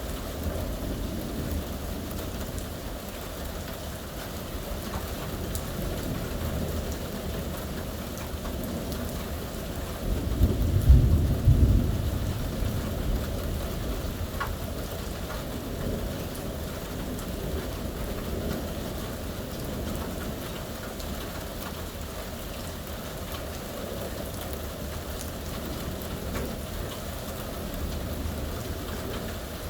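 Steady rain falling, with a loud low rumble of thunder about ten seconds in that fades over a couple of seconds.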